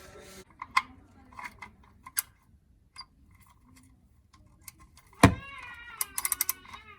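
Scattered metal clinks of tools and the drain plug being handled, then a loud knock and a quick run of ratchet clicks as the oil drain plug is tightened with a hand ratchet. A wavering pitched tone sounds over the clicks near the end.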